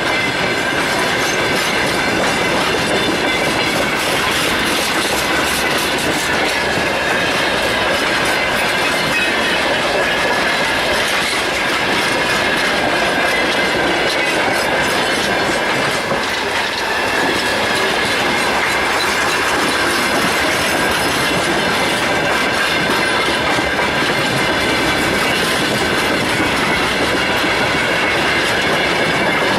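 Freight train wagons rolling past, wheels clacking over the rail joints, with a steady high wheel squeal.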